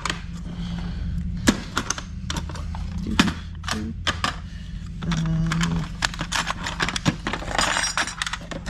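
Clinks, clicks and knocks of metal hardware and tools being handled, with a louder scraping rustle near the end.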